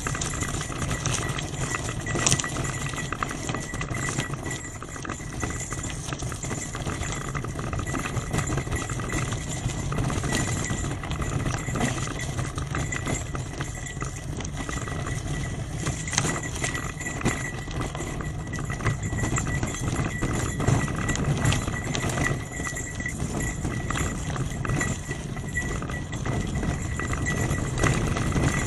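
Trek 8.3 DS bicycle riding over a rough forest track: a continuous rattle with many small knocks and clicks, over a low rumble.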